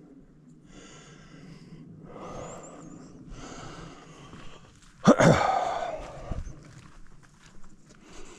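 A man's breathing, with several breathy exhales, then a loud sudden vocal outburst, a grunt or sneeze-like blast, about five seconds in.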